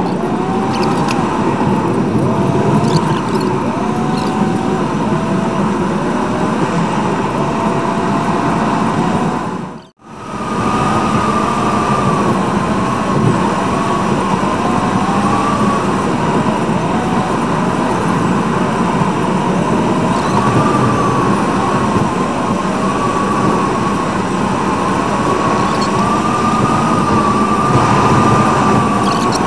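Car engine and road noise from a dashcam recording sped up to time-lapse, with the engine pitch repeatedly gliding up and down. The sound cuts out briefly about ten seconds in.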